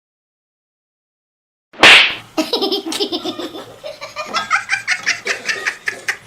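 Silence, then a sudden loud burst about two seconds in, followed by a person laughing hard in quick repeated bursts.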